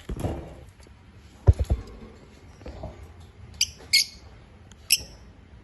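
A brief rustle, then two or three loud low thumps about one and a half seconds in, followed by three short, sharp high-pitched chirps from African lovebirds in the second half.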